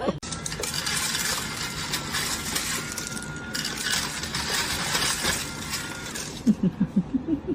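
Clattering and rattling of small hard objects, a dense run of clicks and clinks lasting about six seconds that stops suddenly.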